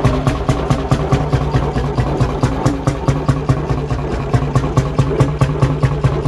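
1957 McDonald type YD two-stroke hot bulb engine running steadily, an even knock from each firing stroke at about five a second.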